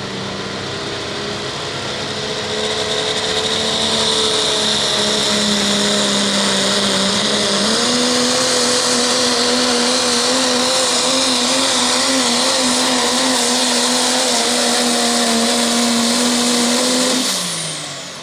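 Diesel pickup truck engine held at full throttle under load while pulling a weight sled, with a strong hiss over a steady engine note. The pitch steps up about halfway through, then the throttle comes off near the end and the engine winds down.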